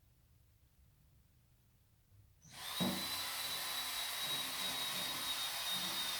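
Near silence, then about two and a half seconds in a small power tool, drill-like, starts and runs steadily with a constant high whine and a rasping hiss, with a couple of brief knocks.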